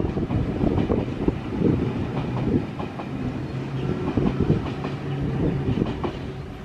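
Double-deck electric passenger train running on the rails, its wheels clicking over rail joints. A steady low motor hum runs through the middle.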